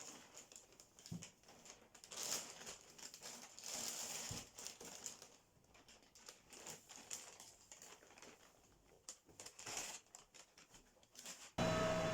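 Faint crinkling and rustling of things being handled, with a few light knocks. About a second before the end, a steady mechanical hum with a held tone starts abruptly.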